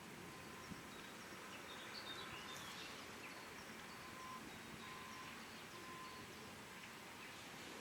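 Faint outdoor ambience: a steady background hiss with scattered faint bird chirps.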